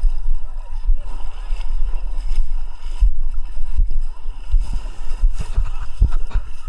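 Sea water sloshing and splashing against a camera held at the surface by a swimmer, with frequent low thumps as the water knocks against it.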